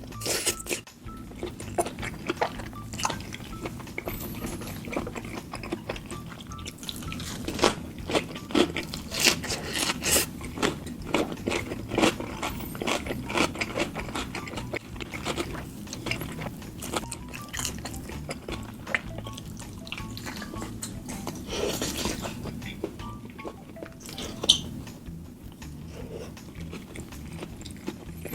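Close-miked eating: irregular wet chewing and mouth clicks with occasional louder crunches, over faint background music.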